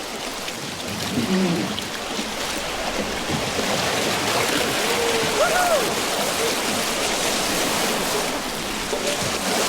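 Rushing river water around the boat, a steady hiss that grows a little louder over the first few seconds. Brief faint voices come through about a second in and again around five seconds in.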